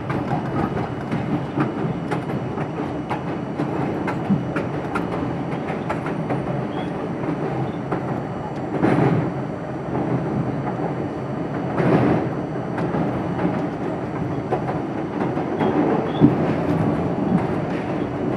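R42 subway train running at speed, heard from on board: a steady rumble with wheels clicking over rail joints, and two brief louder rushes about nine and twelve seconds in.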